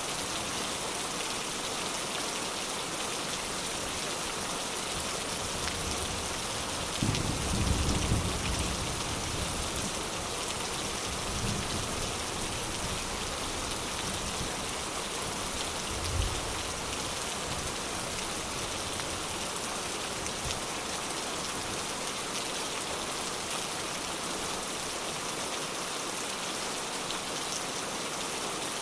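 Steady rain falling and pattering on surfaces, with a few short low rumbles of thunder, the strongest about eight seconds in and weaker ones around eleven and sixteen seconds.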